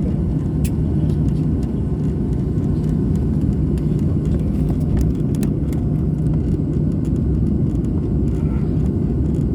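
Airliner noise heard from inside the cabin: a steady low rumble with a steady low hum under it and a few faint clicks.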